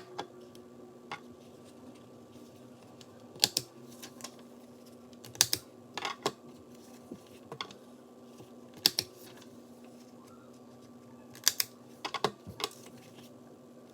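Corner-rounding punch clipping the corners of notebook pages: sharp clicks, often in quick pairs or small clusters, every two to three seconds, over a faint steady hum.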